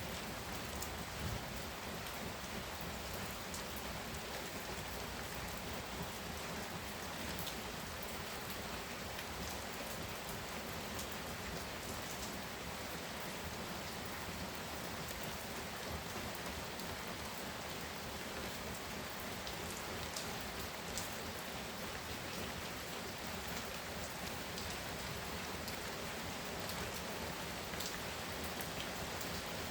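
Heavy rain pouring steadily, with scattered sharper ticks of individual drops.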